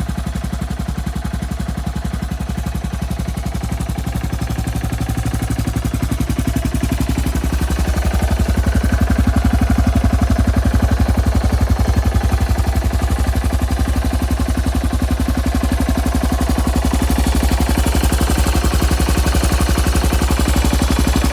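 Yamaha TT600R's air-cooled single-cylinder four-stroke engine running at a steady idle with an even, rapid pulsing beat, rising a little in pitch and loudness about eight seconds in.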